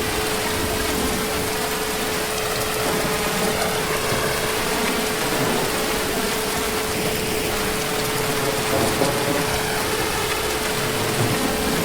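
Heavy rain falling steadily, an even hiss of drops with a faint steady hum running underneath.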